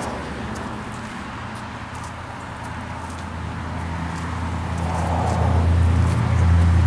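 A 1987 Buick Grand National's turbocharged 3.8-litre V6 idling steadily, with a low, even exhaust note that grows louder from about halfway through as the exhaust tip comes nearer.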